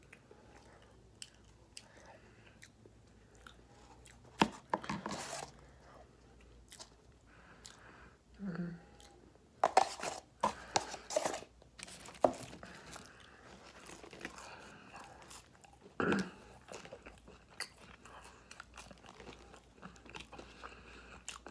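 A person chewing and biting fast food close to the microphone, with wet mouth clicks and crunches. Louder bites and crunches come in short clusters, about four seconds in, around ten to twelve seconds in, and again at about sixteen seconds.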